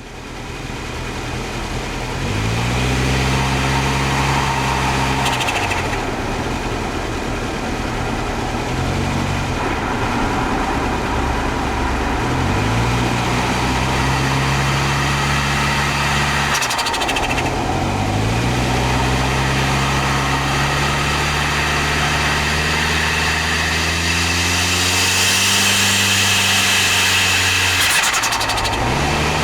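Toyota Starlet Glanza V's turbocharged 1.3-litre four-cylinder accelerating hard through the gears. The engine note climbs in pitch in each gear and drops at each of several shifts, with turbo flutter at the lift-offs, clearest near the middle and near the end.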